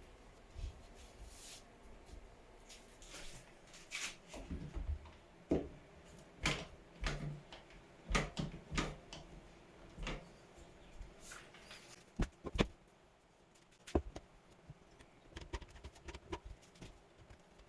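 Irregular light knocks and clicks, as of objects being handled and set down, with a quieter pause about two-thirds of the way through.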